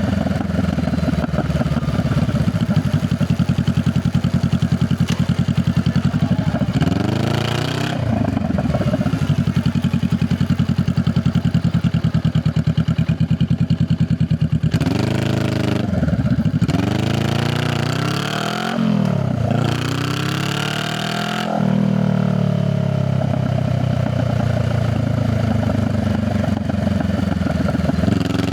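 Honda Rebel 500's parallel-twin engine heard through its exhaust while riding. It holds a steady note for stretches, with the pitch rising and dropping as the rider opens and closes the throttle and changes gear: once about a quarter of the way in, and several times over the middle, where it briefly eases off and gets quieter.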